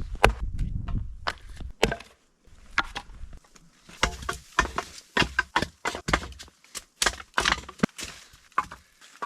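Firewood being cut into short sections: an irregular run of sharp wooden knocks and thwacks, several a second, with a low rumble under the first couple of seconds.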